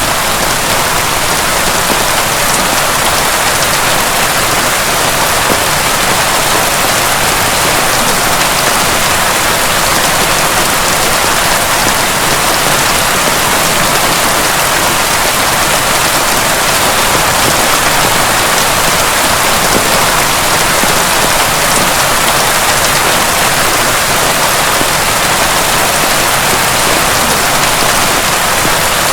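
Heavy rain falling steadily, an even, dense hiss of drops.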